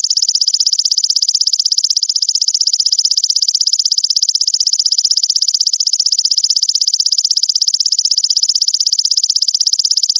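Belalang mas insect calling: a continuous high-pitched trill made of rapid, even pulses that never stops.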